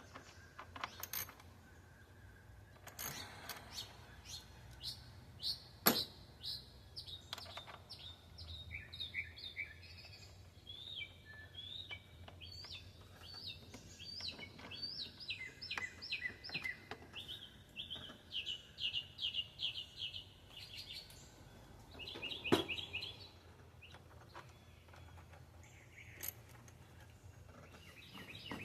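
Small songbirds chirping in quick repeated runs of high notes, with two sharp knocks well apart.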